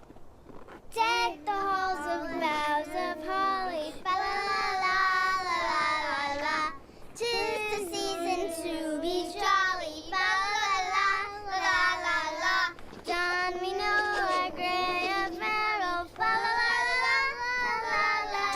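A high voice singing a tune in long, wavering notes.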